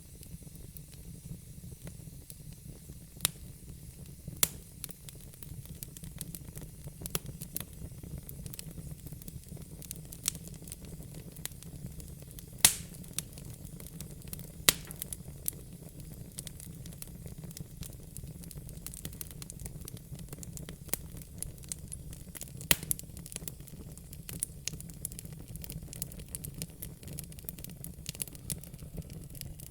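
Wood fire in a fire pit crackling, with sharp pops at irregular intervals over a steady low rumble; the loudest pop comes a little under halfway through.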